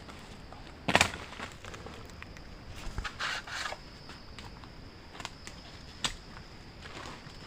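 Handwork in the forest: one loud, sharp knock about a second in, a short rustle of handled material a couple of seconds later, then a few lighter clicks and snaps.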